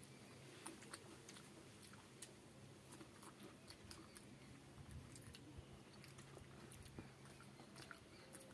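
A person chewing food quietly, with short, soft mouth clicks scattered all through, over a faint steady low hum.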